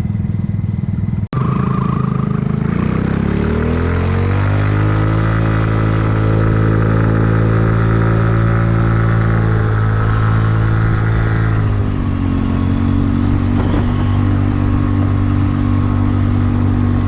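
Kymco People 250 scooter's single-cylinder four-stroke engine pulling up to speed. Its pitch rises over a few seconds, holds steady, then drops to a lower even note about two-thirds of the way through. The exhaust leaks are freshly sealed with high-heat epoxy. There is a brief dropout in the sound just after the start.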